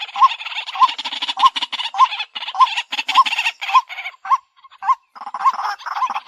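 White-breasted waterhen calling: a rapid run of rough, repeated croaking 'kwak' notes, each with a short rising hook, about two a second, with a brief break about four and a half seconds in.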